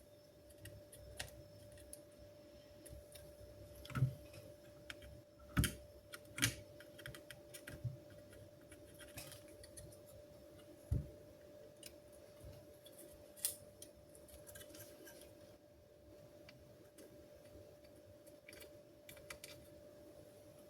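A handful of sharp clicks and taps at irregular intervals, like small tools and parts being handled on a workbench, over a faint steady whine.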